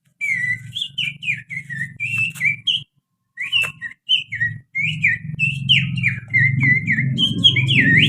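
Human finger whistle imitating an oriental magpie-robin (kacer) song: a quick run of sliding, chirping whistled notes with a brief pause around three seconds in.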